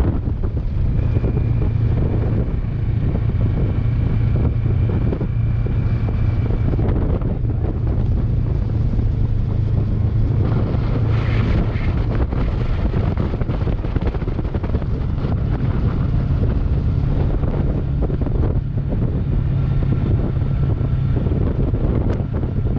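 Kawasaki Versys 650 parallel-twin engine running while riding, under heavy wind buffeting on the microphone. The engine note sits somewhat higher partway through.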